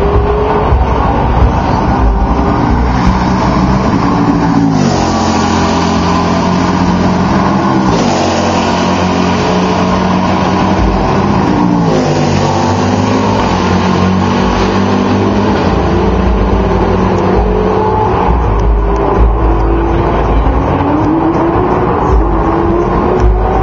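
Several sports-prototype and GT race cars running flat out down a straight, their engines overlapping, with each car's engine pitch dropping as it passes, about 4, 8 and 12 seconds in. Near the end another engine climbs in pitch as a car comes on.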